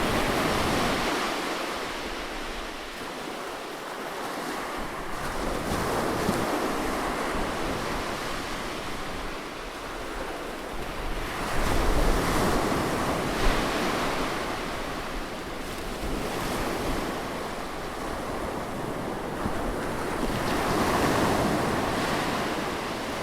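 Ocean surf: waves breaking on a beach and washing back, swelling and fading several times, the biggest wave about halfway through.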